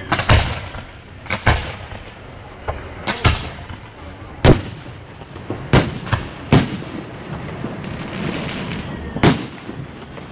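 Aerial fireworks shells bursting in an irregular string of sharp booms, about a dozen in ten seconds, with a spell of crackling near the end.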